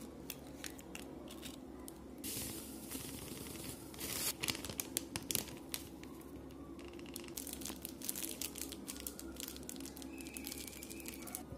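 Rustling, crinkling and sharp little clicks of batter ingredients being handled and added to a bowl, with a louder crackly stretch about four to five and a half seconds in.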